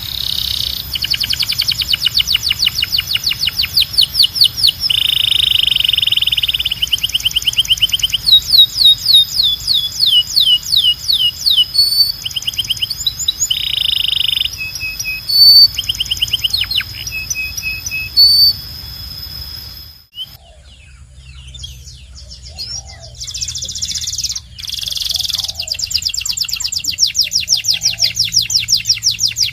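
Canary singing a long song of rapid trills, each tour of repeated notes held a second or two before switching to the next, some rising and some falling. About twenty seconds in the song breaks off briefly and a different recording of trilling starts.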